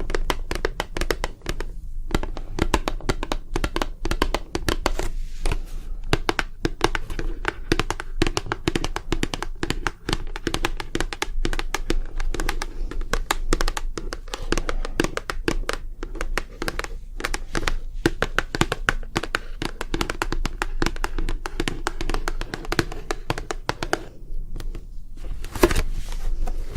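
ASMR tapping and crinkling by hands close to the microphone: a dense, rapid stream of small taps and clicks, with a short pause and then one louder knock near the end.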